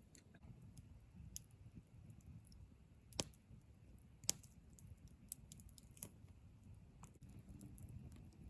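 Faint, irregular crackling and popping of a wood campfire, with two sharper pops about three and four seconds in.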